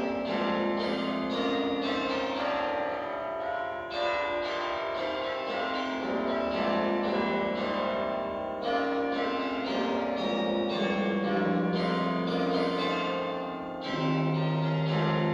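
Church bells ringing a continuous peal, many bell notes overlapping and struck in quick succession.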